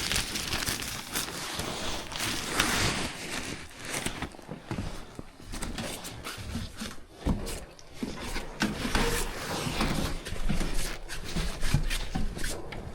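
Irregular rustling and rubbing with scattered knocks and clicks, like handling noise and footsteps in a small room.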